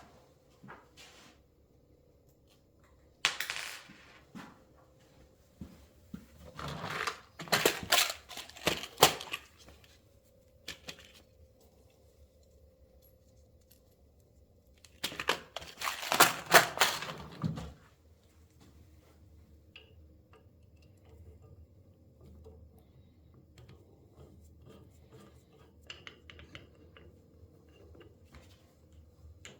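Small metal parts and tools clinking and rattling as they are handled on a workbench, in three short clattery bursts, with quiet handling ticks between them.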